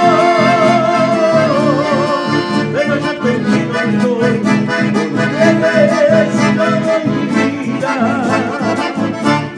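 Instrumental chamamé music: an accordion plays the melody with vibrato over a steady guitar and bass rhythm, with no singing.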